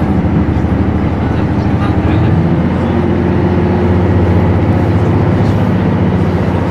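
Passenger train running, heard from inside the car: a steady low rumble with an engine or motor hum that steps up in pitch about two and a half seconds in.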